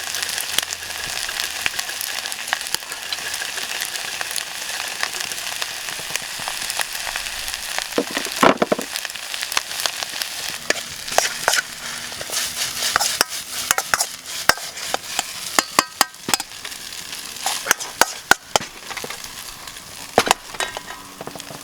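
Food sizzling in a hot pan: a steady frying hiss with many sharp clicks and scrapes from a utensil stirring it, the clicks coming more often in the second half.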